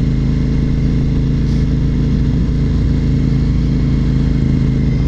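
2004 Honda RC51's 1000cc V-twin engine running at a steady, even speed while cruising.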